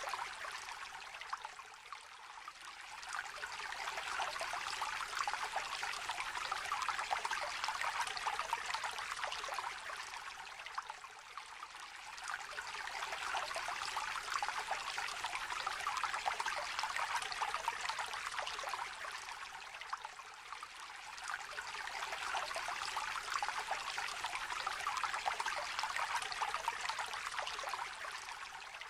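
Small river trickling and babbling, a light steady splashing that eases for a moment about every nine seconds.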